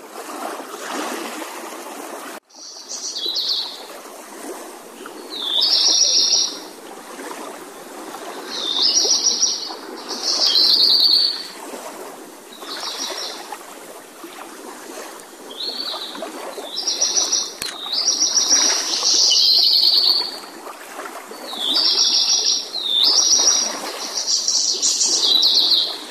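Small songbird repeating short, high warbled phrases about a second long every two or three seconds, over a steady wash of moving water.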